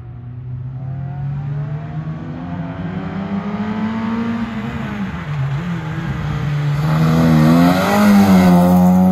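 Opel Astra 2.0 engine revving hard on an autoslalom run, its pitch climbing, dropping about five seconds in, then climbing again as the car comes closer. It gets louder throughout and is loudest near the end.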